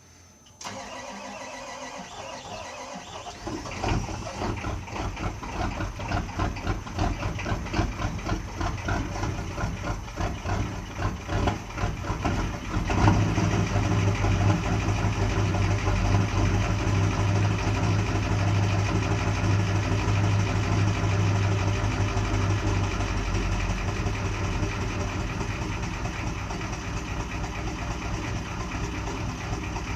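Ford 7.3 L IDI V8 diesel cold-starting: it cranks, catches after a few seconds and runs unevenly, then at about 13 s settles into a louder, steady idle that eases slightly toward the end.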